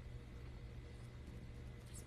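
Faint room tone with a steady low hum and a few faint ticks near the end.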